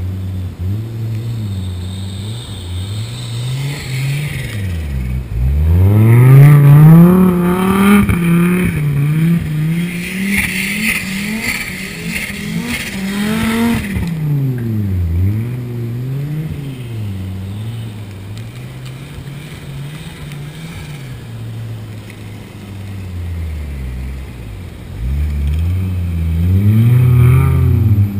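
Audi UrS6's turbocharged 2.2-litre 20-valve inline-five, fitted with a Garrett GT35R turbo, revving up and down over and over as the car slides round in circles on snow. The loudest climb in revs comes about six seconds in, followed by quick blips, and the revs rise again near the end.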